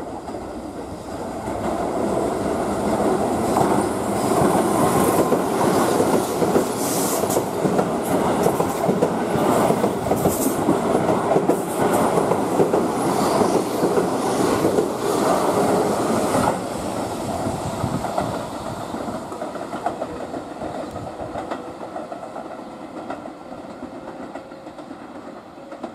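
Keihan 8000 series limited express electric train passing through a station at speed without stopping, its wheels clattering over the rail joints. The noise builds about two seconds in, stays loud until about sixteen seconds, then drops and fades as the train runs off.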